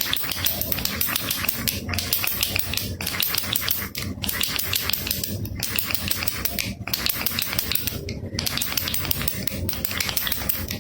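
Baby rattle shaken steadily, a dense fast clicking rattle, with brief breaks about every second or so between shakes.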